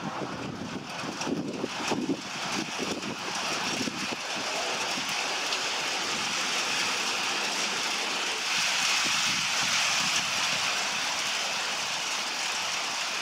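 Electric train running close by on the rails: a steady hiss of wheels and traction that builds from about four seconds in and is loudest about two-thirds of the way through. Wind buffets the microphone at the start.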